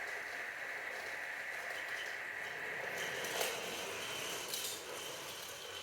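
Battery-powered Thomas and Percy toy trains running on their track: a steady small electric-motor whine with rattle, fading about three seconds in, with a few light clicks.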